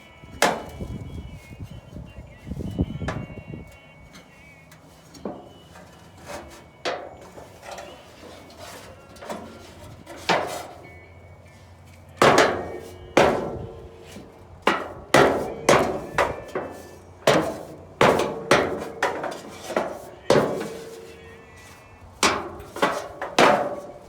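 Repeated sharp knocks and clanks of dryer panels and parts being handled and struck during disassembly. A few are spread through the first half, then a quicker run of about a dozen follows from around twelve seconds in.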